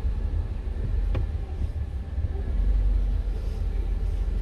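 Low, steady rumble of a car's running engine heard from inside the cabin, with a single short click about a second in.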